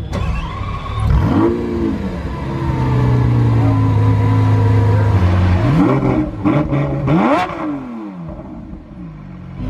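A car engine revving. Its pitch climbs sharply about a second in and drops back, holds steady for a few seconds, then rises twice in quick succession and falls away near the end.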